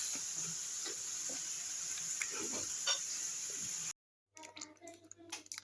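Food sizzling in a hot frying pan: a steady hiss with faint crackles and ticks, cutting off abruptly about four seconds in.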